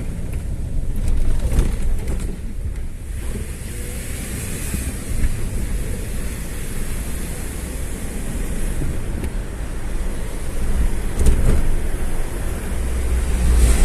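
Steady rumble of a moving road vehicle, with wind buffeting the microphone and a few faint knocks.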